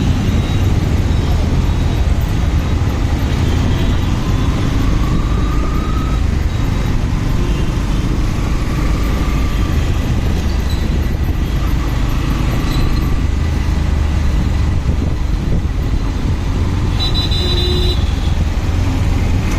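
Motorcycle running at speed in traffic, its steady engine and road rumble heard on board, with a brief higher tone sounding near the end.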